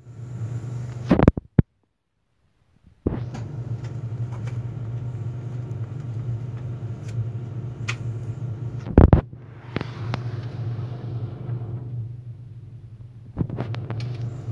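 Steady low hum inside an Allegro electric train carriage, with a few clicks and one loud knock about nine seconds in. The hum breaks off for about a second near the start.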